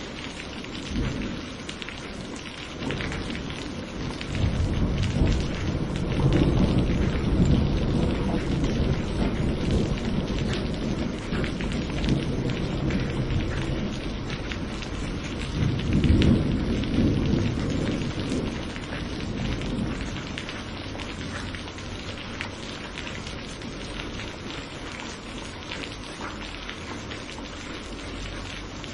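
Steady rain falling, with rolling thunder rumbling: one long roll swells about four seconds in and a second peaks around sixteen seconds, then the rumble fades away, leaving the rain.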